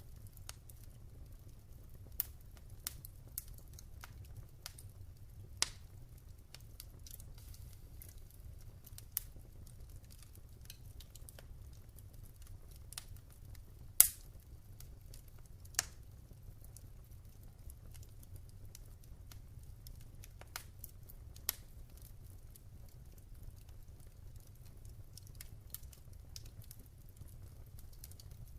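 Wood fire burning in a fireplace, crackling with scattered irregular pops over a low steady rumble; the sharpest pop comes about halfway through.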